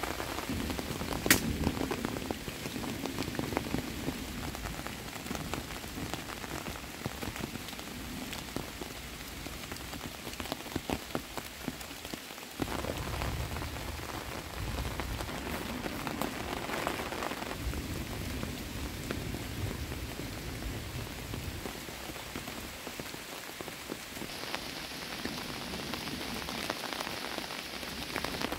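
Steady rain falling on leaves, with scattered drops tapping close by and one sharp tap about a second in.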